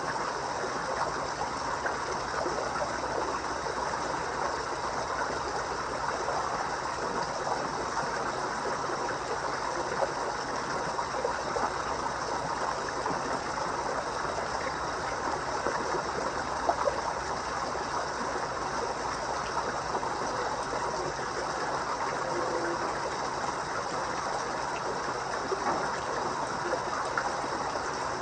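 Koi pond water trickling and splashing steadily.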